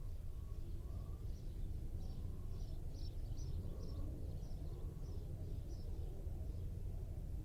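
Outdoor ambience: small birds chirping in short repeated bursts of high calls over a steady low rumble.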